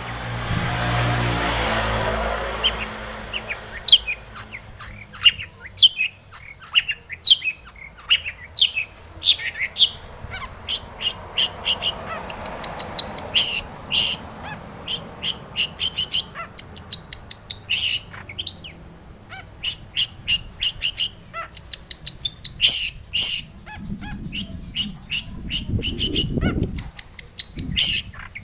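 Long-tailed shrike (cendet) singing a fast, varied run of short, sharp chirps and whistles, its song packed with imitated calls of other birds. A short rush of noise sits under the first two seconds.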